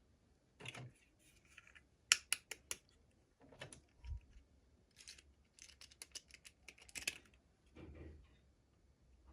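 Toy packaging being handled and opened by hand: an irregular run of sharp little clicks and crinkles, with softer rustles between them.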